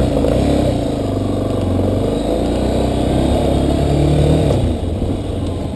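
Yamaha Ténéré 250 single-cylinder motorcycle engine running, its note rising about four seconds in and easing off near the end.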